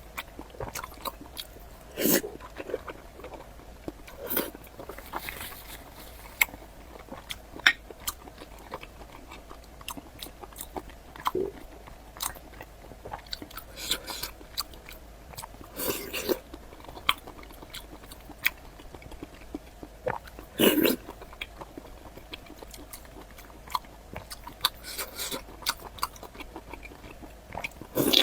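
Close-miked eating: biting and chewing on sliced pork in garlic sauce, with scattered wet mouth clicks and a few louder bites.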